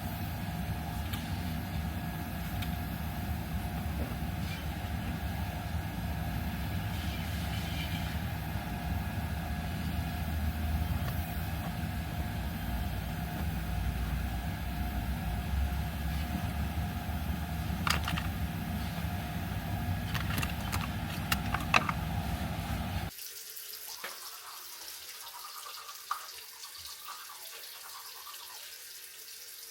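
Steady low rumble of a car heard from inside the cabin, with a few sharp clicks. After a sudden cut, a quieter steady hiss of a faucet running into a sink.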